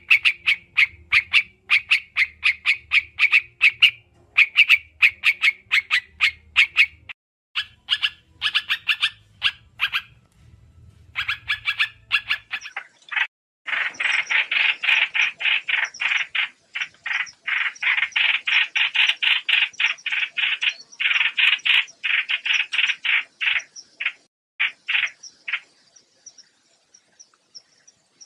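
Trao trảo bird giving rapid chattering calls, long runs of quick short notes in bursts, which get louder and denser about halfway through and stop a few seconds before the end. A faint low hum lies under the first half.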